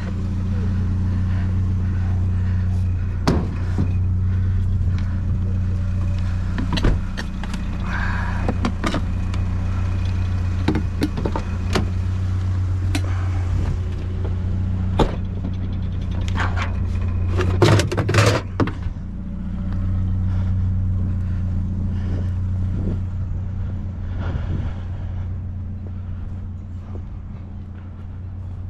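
A vehicle engine idling steadily, with scattered knocks and clunks of things being handled, and a burst of louder clatter about two-thirds of the way through.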